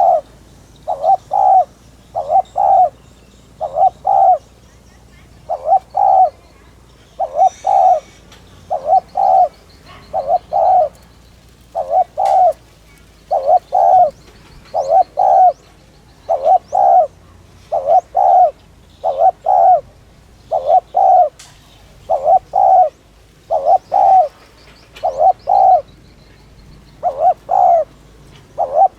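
Spotted dove cooing over and over in short, closely paired notes at a quick, even rhythm. This is the urgent 'thúc' coo that keepers play as a lure call to stir and train their doves. Faint high chirps of small birds sound in the background.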